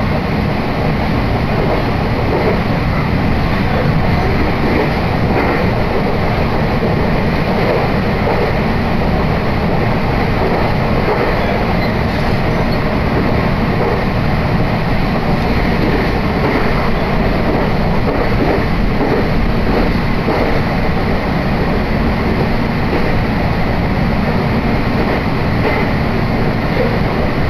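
Meitetsu Hiromi Line commuter train running between stations, heard from inside the passenger car: a steady, unbroken running noise of wheels on rails and the train's motors.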